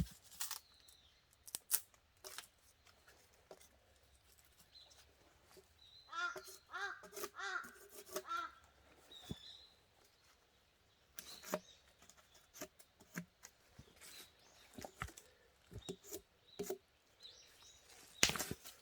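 Faint crows cawing, a quick run of about five caws some six seconds in, with scattered faint knocks and clicks around them and a louder knock near the end.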